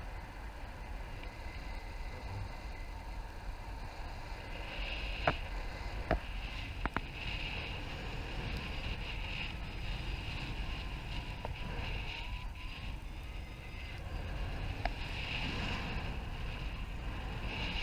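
Airflow rushing over the microphone in flight, a steady rumble that swells and eases. A few sharp ticks cut through it about five to seven seconds in and once more later.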